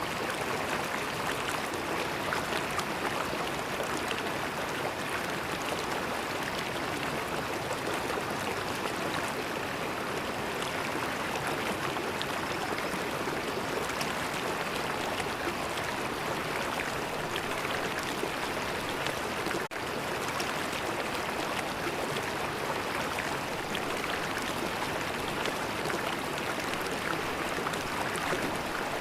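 River water flowing steadily, a continuous rushing wash of running water, with a momentary dip about two-thirds of the way through.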